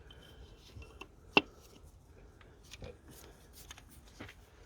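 Handling noise from fitting a diesel injector into the engine: scattered sharp clicks and light rubbing as the injector and its washer are worked into place. One click about a second and a half in is the loudest.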